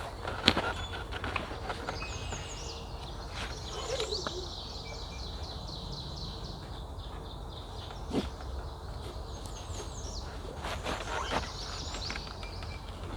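A songbird singing two fast trilled phrases of quick repeated high notes, about three seconds in and again near the end, with a few sharp knocks in between.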